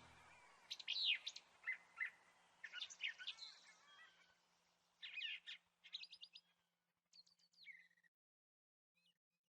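Songbirds chirping and singing in short, quick phrases, growing fainter and stopping about eight seconds in.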